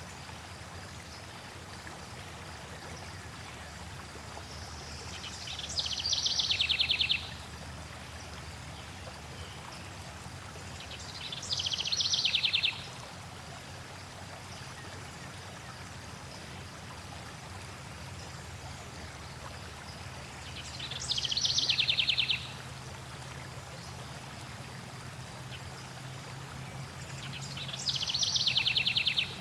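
Flowing stream running steadily, with a songbird singing a short, rapid trill four times, several seconds apart; the trills are the loudest sound.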